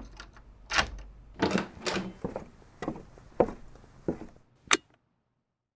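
Apartment door being opened and handled: a run of separate knocks and clicks, ending with one sharp click near the end.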